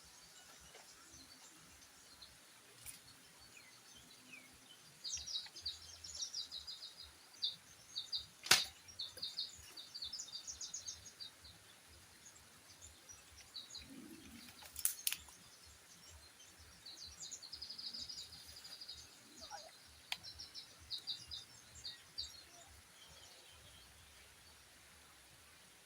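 A small bird sings in rapid, high trills of quickly repeated notes, in two spells with a pause between, over faint outdoor ambience. A few sharp clicks or knocks cut in, the loudest about a third of the way through.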